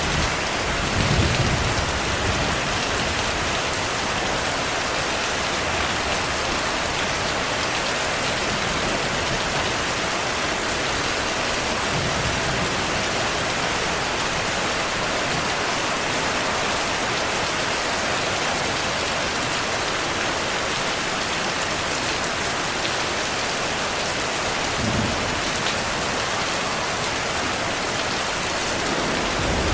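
Steady rain falling, with low rumbles of thunder about a second in and again about 25 seconds in.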